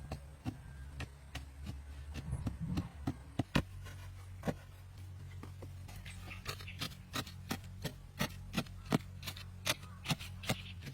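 Hand work on wood: a string of sharp, irregular knocks and clicks, a few a second, coming faster from about halfway through, over a steady low hum.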